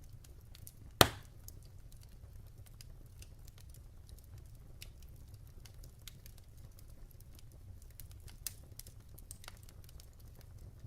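Wood fire burning in a fireplace, crackling with scattered small snaps over a low steady rumble. One loud pop comes about a second in, and a smaller one comes a few seconds from the end.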